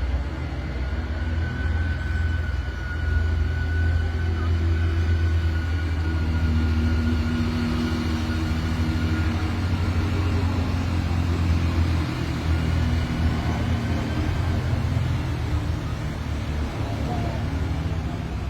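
Steady low rumble of a running motor-vehicle engine, with a faint thin tone in the first half.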